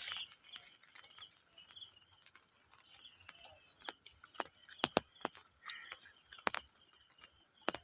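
Steady high-pitched chirring of insects, with scattered sharp taps and clicks in the second half.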